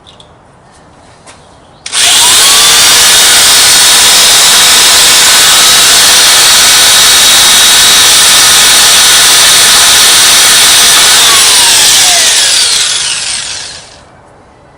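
Electric drill starting up about two seconds in, running loud and steady for about ten seconds, then winding down, its pitch falling as it stops. It is drilling a hole in metal for a mounting screw that will then be tapped.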